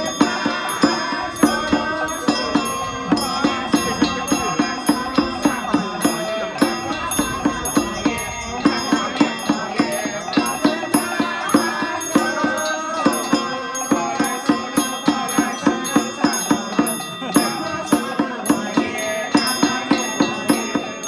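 Temple ritual music with a steady beat of sharp percussion strikes, about two to three a second, over sustained melodic tones.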